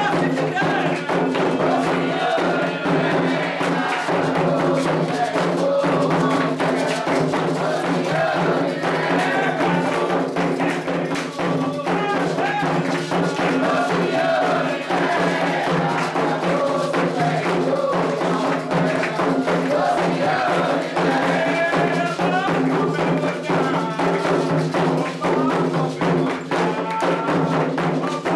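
Candomblé ritual music: atabaque hand drums and other percussion in fast, continuous strokes, with voices singing a chant for the orixá Oxossi over them.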